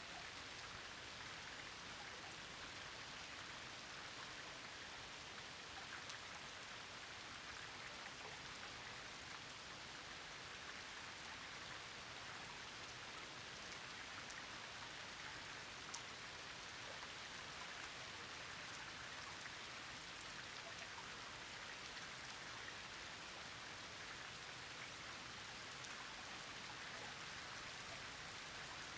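Steady rain falling, an even hiss with scattered individual drops ticking through it and one sharper drop about halfway through.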